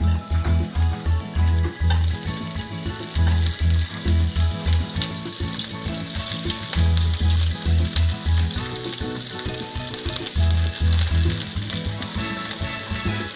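Sliced onion and green onion sizzling as they drop into hot oil in a wok, a steady hiss that starts right away. Background music with a pulsing bass beat plays underneath.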